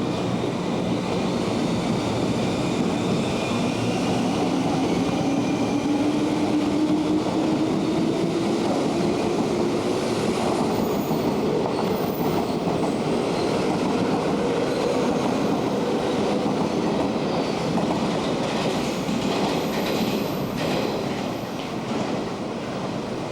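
JR 201 series electric commuter train pulling out, its traction motors giving a whine that rises steadily in pitch as it gathers speed, over the clatter of its wheels on the rails.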